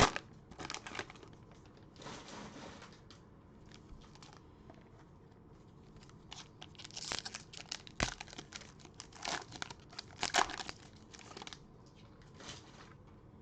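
Cellophane wrapper of a trading-card cello pack being torn open and crinkled, in irregular crackles with a few louder clusters and a sharp click about two-thirds of the way through.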